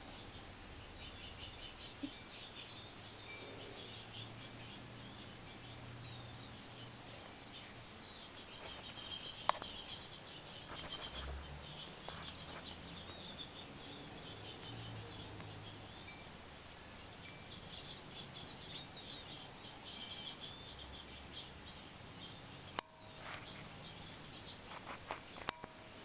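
Faint outdoor ambience of small birds chirping, with a steady insect trill underneath and a few sharp clicks, the loudest about 23 seconds in.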